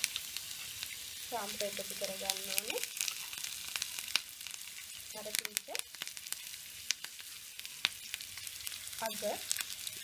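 Sliced onion, curry leaves, green chillies and garlic sizzling in hot oil in a frying pan: a steady hiss dotted with many small sharp pops and crackles.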